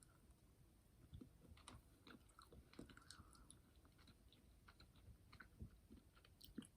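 Faint, irregular chewing of a jelly bean candy (a Brach's jelly bird egg), with soft little clicks and squishes throughout.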